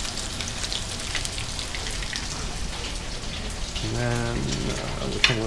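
Shark fillet frying in hot oil in a pan: a steady sizzle with scattered crackles and pops.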